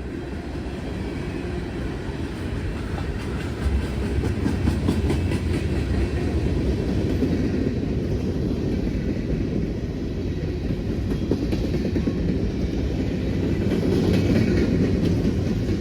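A CSX mixed freight train rolling past, its railcar wheels clicking and clattering over the rail joints. The noise builds in the first seconds and stays loud and steady, with a low rumble underneath.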